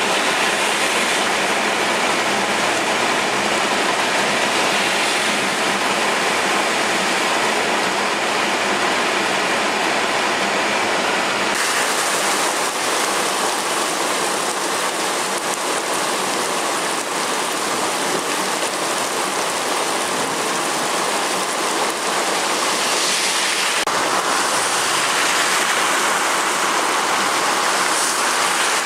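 Hard rain pouring down, a steady dense rushing with no separate drops; its tone shifts suddenly about a third of the way in.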